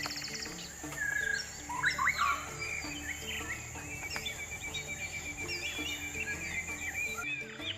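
Bird calls: assorted chirps and whistled notes, then a rapid even trill of repeated notes through the second half, over a steady high insect-like hiss and soft background music with a repeating melody.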